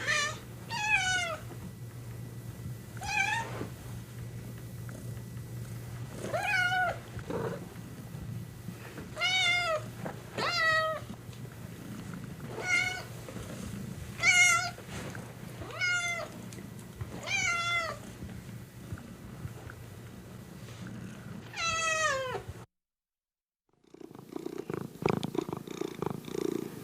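Domestic cat meowing again and again, about a dozen drawn-out meows that fall in pitch, over a steady low purr. After a sudden break to silence near the end, a cat purring in a rhythmic pulse.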